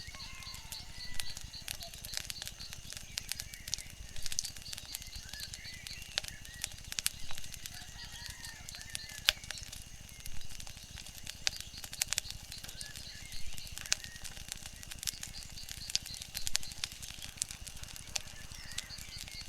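Wood fire crackling, with frequent sharp pops over a steady hiss, and faint rising and falling calls in the background.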